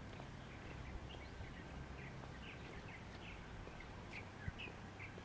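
Small birds chirping in many short, high notes with no steady rhythm, over a faint low steady hum. A single low thud comes near the end.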